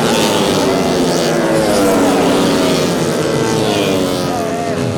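Several tuned four-stroke 150 cc underbone racing motorcycles running hard at high revs, their overlapping engine notes falling in pitch as they pass by.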